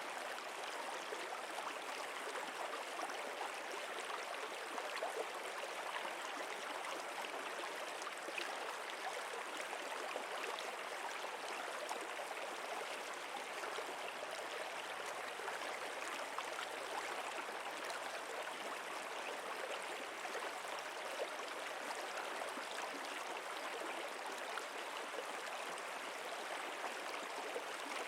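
Stream water flowing steadily: an even, unbroken rush with fine babbling detail.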